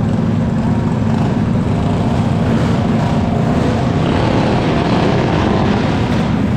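Engine running steadily at an even pitch, with a constant low hum and noise over it.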